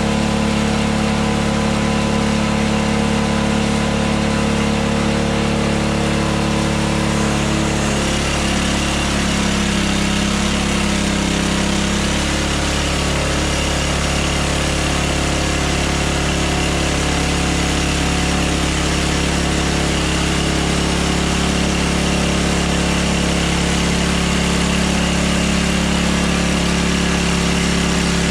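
Hudson Hunter sawmill's engine running steadily. About eight seconds in, the engine note dips and wavers for a few seconds and a steady hiss rises, consistent with the band blade going into the log under load.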